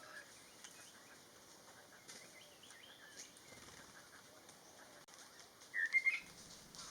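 Faint forest birdsong: scattered soft, wavering bird calls, then a brief louder chirping call about six seconds in.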